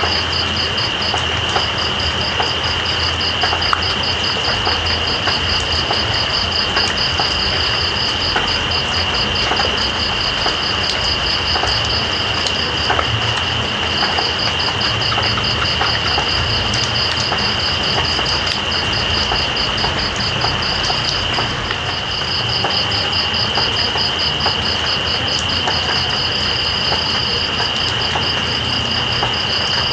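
Steady rain with night insects calling over it: one steady high buzz and, above it, a fast pulsing trill that stops briefly a few times and starts again.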